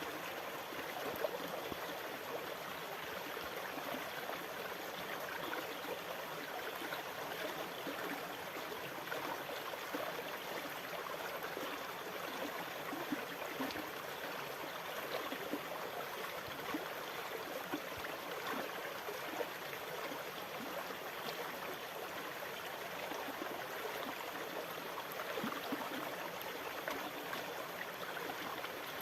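Water running steadily: a continuous gurgling, trickling wash with fine splashy crackle, even in level without the rise and fall of breaking waves.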